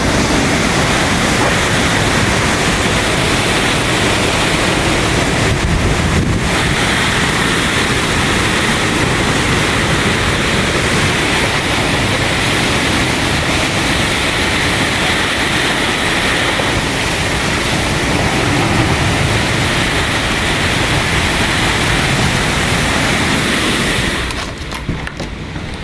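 Storm wind blowing hard on the microphone, a loud, steady rushing noise that eases near the end.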